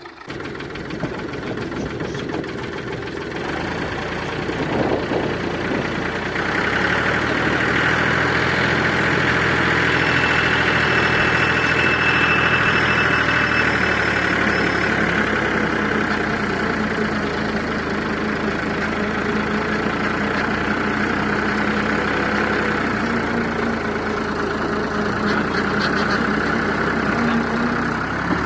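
Tractor engine running steadily, working harder from about six seconds in and staying loud.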